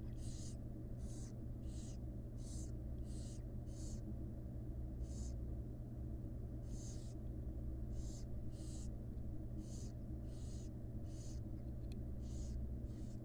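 Barn owl chicks making their hissing begging calls, short rasping hisses repeated about one or two a second with a few longer pauses, over a steady low electrical hum.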